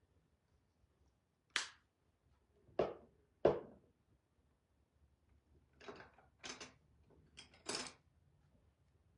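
A series of sharp clicks and knocks from small objects being handled on a work table, such as painting supplies being picked up and set down. There are three louder knocks in the first half and a quicker run of about six clicks in the second half.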